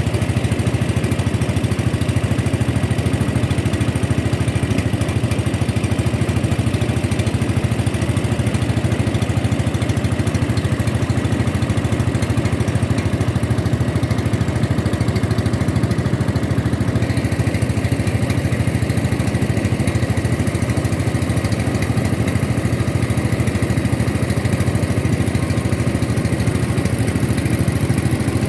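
Small boat engine running steadily at an even pace.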